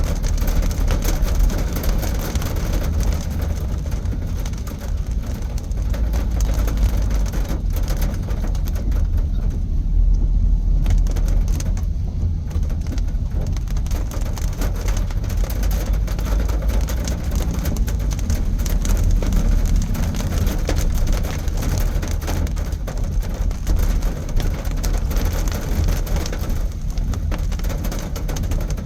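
Steady low rumble of a car driving, heard from inside the cabin, with light rain.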